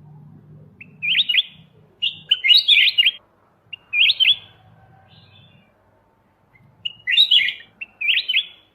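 Kutilang emas mata putih (a bulbul) singing short, bright chirping phrases in quick succession, with a pause of about two seconds in the middle.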